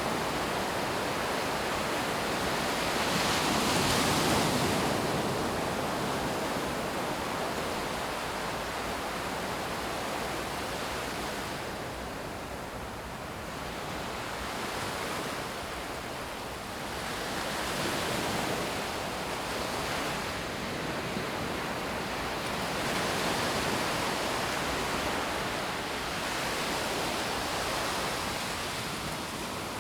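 Sea waves breaking and washing up on the beach: a continuous rush that swells and ebbs every few seconds and is loudest about four seconds in.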